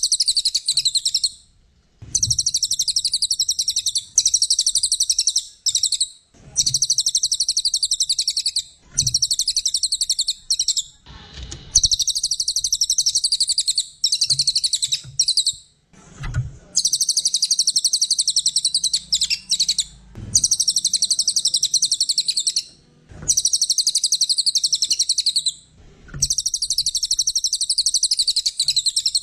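A cililin songbird singing in fast, dense, high-pitched trilling phrases of about two seconds each, repeated about nine times with short pauses between them.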